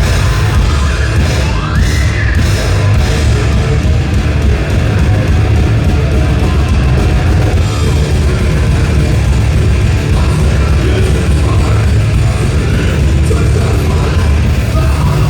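Thrash metal band playing live and loud: distorted guitars, bass and drums, with shouted vocals.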